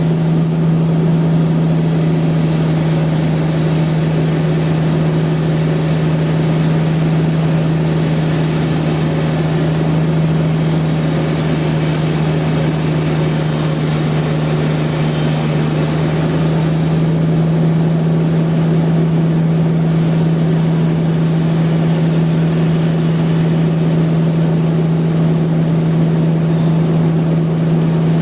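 Sawmill machinery running at a steady speed: a constant deep hum that does not change in pitch, with a noisy wash of mechanical sound over it.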